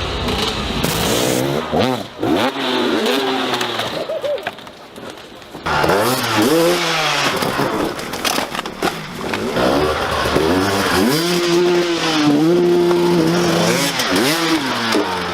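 Dirt bike engines revving hard, the pitch rising and falling again and again with the throttle, then held high for a few seconds near the end.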